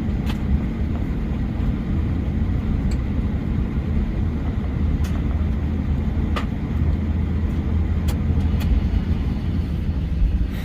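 Steady low rumble and hum inside the cabin of an Airbus A321 during gate pushback, with a few faint short clicks scattered through it.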